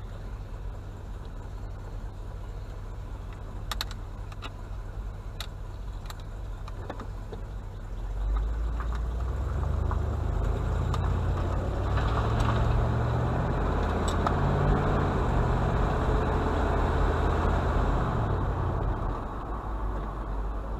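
A motor vehicle engine running at a low, steady idle with a few sharp clicks. About eight seconds in it gets louder, its pitch rising and falling for roughly ten seconds before it settles back down near the end.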